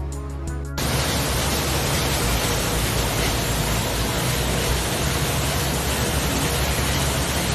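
Brief music, then a steady, even hiss that starts abruptly under a second in and holds at one level.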